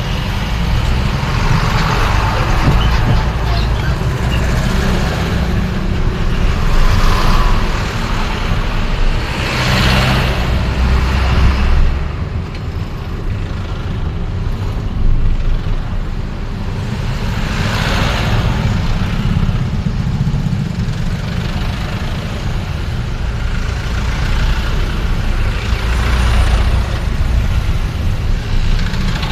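Road traffic heard while driving through a city: a steady low engine and road rumble, with other vehicles passing, loudest around ten and eighteen seconds in.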